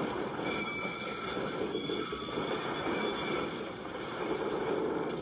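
Train running: a steady, even rolling noise with no distinct squeal or horn.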